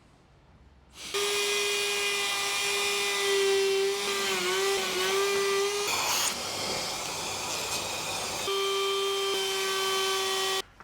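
Woodworking router running at full speed, a steady high whine, starting suddenly about a second in. Its pitch wavers briefly under load near the middle, a rougher noisy stretch of cutting follows, then the steady whine returns and cuts off abruptly near the end.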